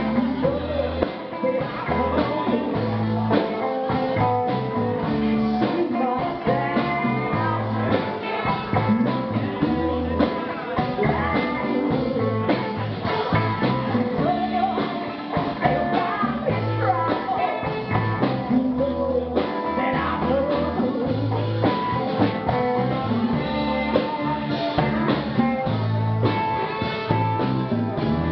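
Live band playing blues-rock: guitar over bass and drums, with singing.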